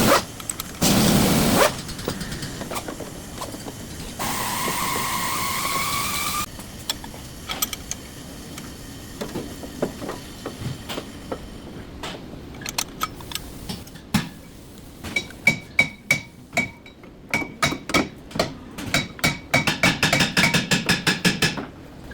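Workshop tool noises during a brake job: two short loud bursts of a tool, then a couple of seconds of a power tool running with a slowly rising whine. After that comes a long run of quick sharp metallic clicks and taps, growing denser near the end.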